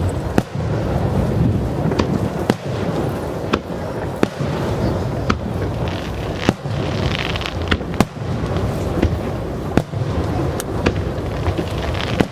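Aerial fireworks shells bursting overhead: a continuous deep rumble of explosions with sharp reports cracking out about once a second, at irregular spacing.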